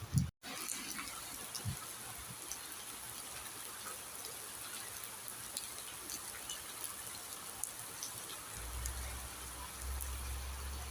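Steady rain falling, with many small drop ticks over an even patter and some trickling water. A low rumble joins in near the end.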